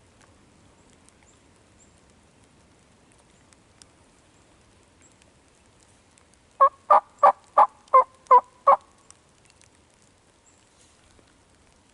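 A run of seven evenly spaced turkey yelps, about three a second, loud against a quiet woods.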